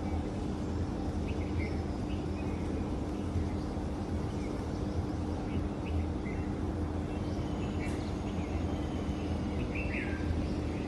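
Morning birds chirping and calling in short, scattered notes over a steady low hum.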